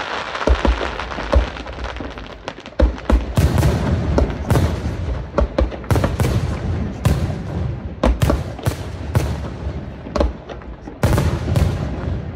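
Aerial firework shells bursting: a few separate booms at first, then from about three seconds in a rapid barrage of loud reports following one another almost without pause.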